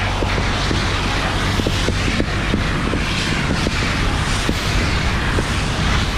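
Fire hose nozzle flowing onto a training fire, a steady rushing hiss over a low rumble, with scattered short crackles.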